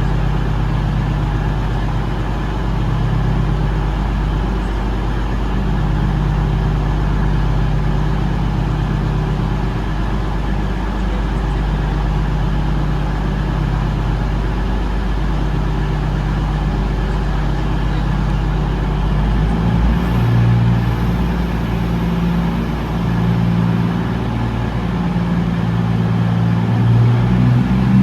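Diesel train engine idling with a steady low hum. Its note shifts and wavers about twenty seconds in.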